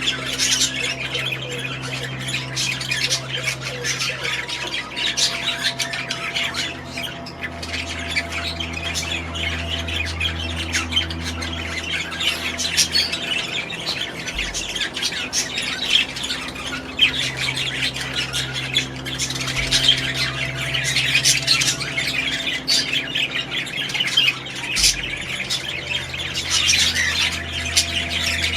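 A flock of caged parrots squawking and chattering all at once, a dense, unbroken high-pitched din of short overlapping calls, over a low steady hum.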